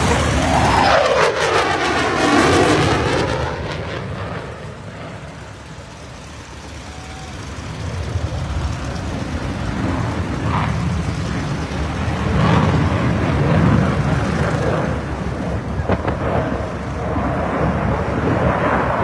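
F-35 fighter jet with its Pratt & Whitney F135 engine passing by, with a sweeping whoosh in the first few seconds. The noise fades to its quietest about six seconds in, then builds again into a loud, steady jet rumble.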